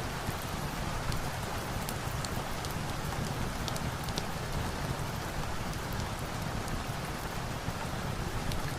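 Steady rain falling, an even hiss with scattered sharp little ticks.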